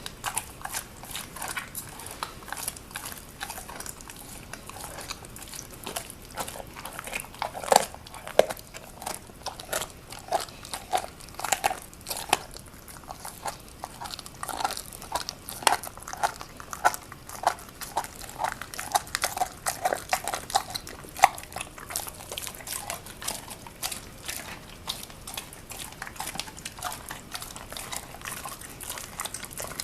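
Presa Canario chewing a raw chicken leg quarter and crunching through the bone: a long run of irregular sharp cracks and crunches, thicker and louder through the middle.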